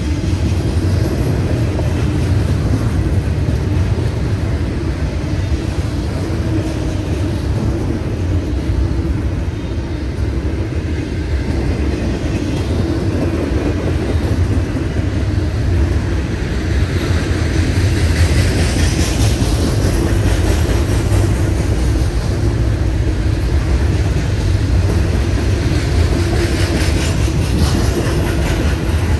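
Double-stack intermodal freight cars rolling past close by: a loud, continuous rumble of steel wheels on rail, with a higher hiss from the wheels swelling for a few seconds past the middle and again near the end.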